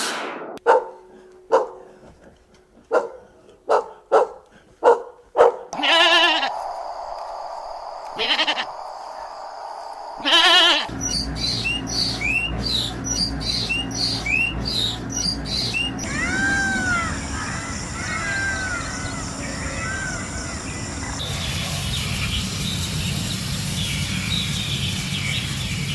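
A run of farm animal sounds. It opens with a series of sharp clicks, then three bleats about two seconds apart, then rapid bird chirping and repeated short arched calls over a steady background.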